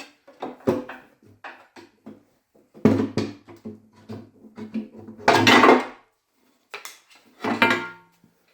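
Cast iron timing case cover of a Gardner diesel engine being worked free and lifted off, with a run of irregular metal clanks, knocks and scrapes. The loudest is a scrape a little past halfway, and near the end comes a clank that rings briefly.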